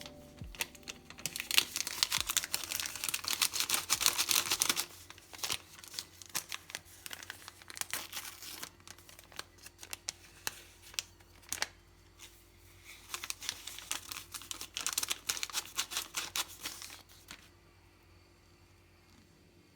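Packaging crinkling and tearing as it is handled, in two dense bouts of crackling, one near the start and one past the middle, with lighter rustles between.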